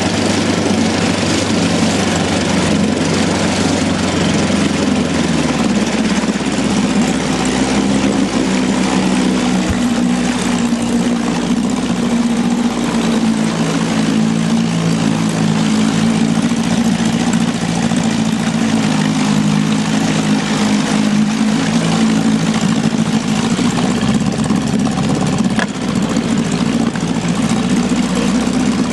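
A boat's motor running steadily, its note shifting about five seconds in.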